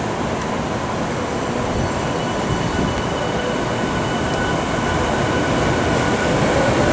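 Yokohama Minatomirai Railway Y500 series electric train running, with steady wheel-on-rail rumble and a faint motor whine that climbs slightly in pitch near the end as it gathers speed.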